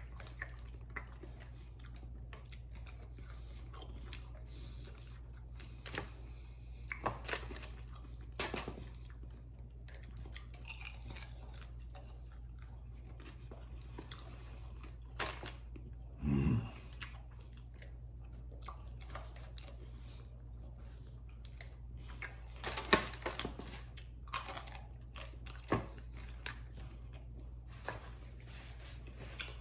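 A man chewing and biting garlic parmesan chicken wings, with scattered short sharp mouth sounds and a brief low vocal sound about halfway through.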